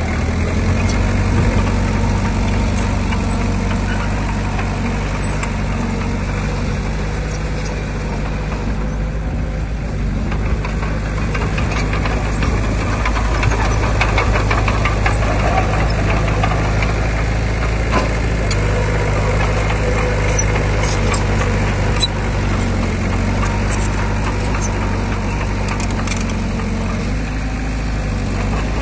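Heavy diesel engine of earthmoving machinery running steadily, with a stretch of irregular clatter in the middle.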